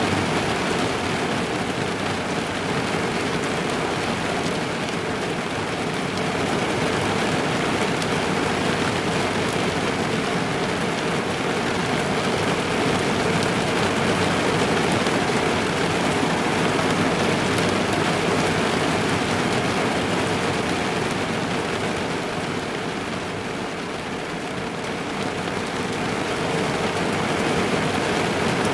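Steady rain falling on a car's roof and windows, heard from inside the car as a dense, continuous patter. It eases slightly a few seconds before the end, then picks up again.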